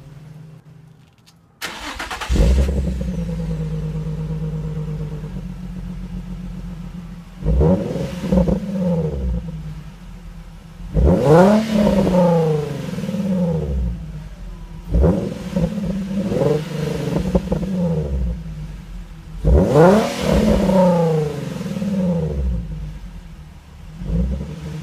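A car engine with a loud exhaust starts about two seconds in and idles. It is then revved hard and let fall back five times, roughly every four seconds.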